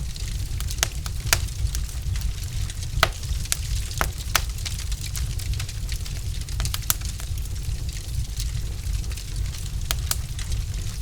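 Wood logs burning in a fireplace, crackling with sharp, irregular pops over a faint hiss and a steady low rumble.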